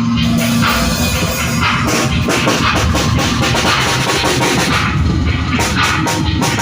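Live noise music: a dense wall of noise over all pitches with a drum kit hitting rapidly underneath, getting busier about two seconds in.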